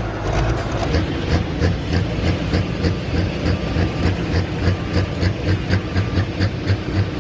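Pulling tractor's engine idling with a loping beat, about three pulses a second.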